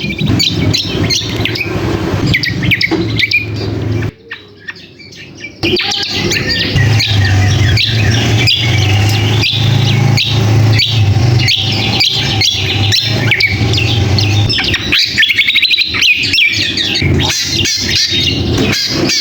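Cucak kombo (kecial kombok) birds calling noisily, a dense stream of rapid chirps and squawks, as used for lure audio. The calls break off briefly about four seconds in, and a low steady hum runs under them.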